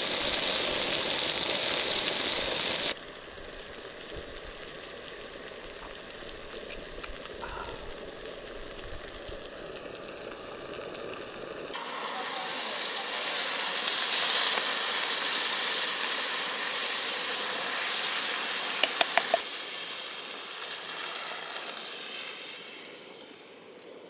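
Ham slices sizzling as they fry in oil in a pan on a propane camp stove, loud at first and then quieter. About twelve seconds in, the sizzle swells again as baked beans are spooned from the can into the hot ham drippings, with a few quick clicks, then it dies down.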